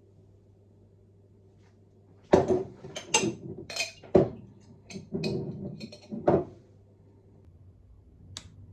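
Dishes and kitchen utensils clattering: a quick run of knocks and clinks lasting about four seconds, then a single click near the end, over a faint low hum.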